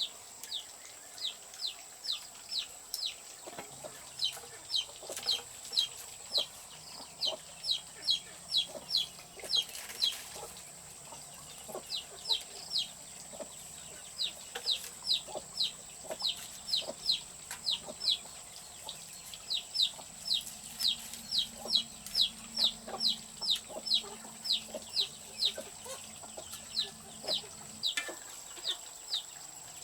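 Chicks peeping: short high cheeps, each sliding downward, about three a second in runs broken by brief pauses, over a faint steady high whine.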